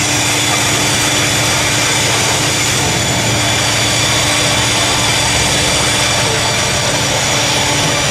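Diesel locomotive engine running steadily: a deep rumble with a steady high whine over it.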